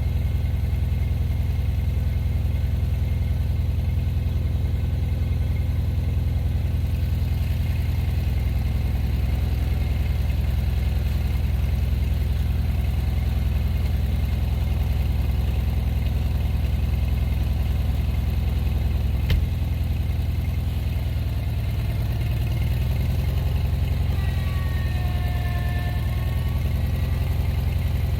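Gasoline engine running steadily at low speed, with a single sharp click about 19 seconds in and a few faint wavering tones near the end.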